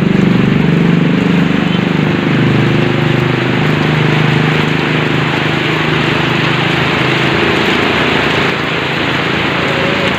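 Heavy rain falling steadily, with a vehicle engine idling that fades away about eight seconds in.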